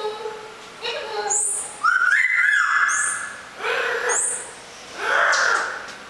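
A bird giving a series of loud, strange, ghostly calls, one every second or so. Several open with a high falling whistle, and the longest and loudest comes about two seconds in.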